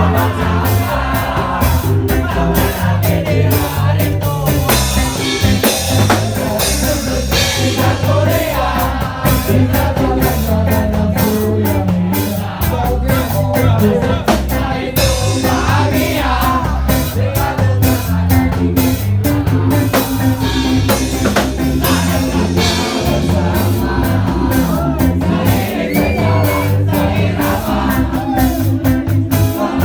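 A live band playing a song: a singer over a drum kit, guitar and a low bass line, with a steady beat throughout.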